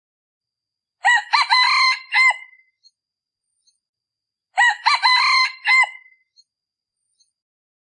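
Male junglefowl decoy cock crowing twice, about three and a half seconds apart. Each crow is a short, broken series of notes, and the two crows sound identical. This is the call used to lure wild red junglefowl cocks.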